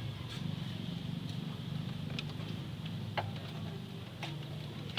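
Sharp, light metallic clicks about once a second over a steady low hum.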